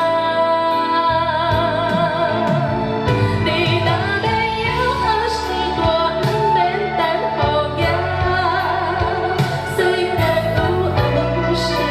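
A woman singing a slow, sustained melody with vibrato, accompanied by a Chinese traditional instrumental ensemble.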